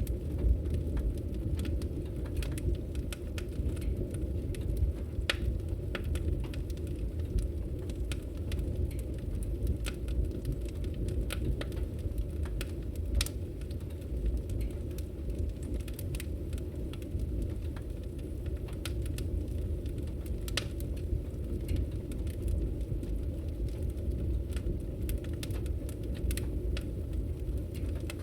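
Wood fire burning: a steady low rumble of flame, with scattered sharp crackles and pops from the burning wood.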